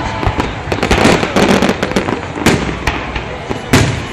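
Fireworks salute: a rapid, irregular series of booming shell bursts with crackling in between, the loudest bangs about two and a half and nearly four seconds in.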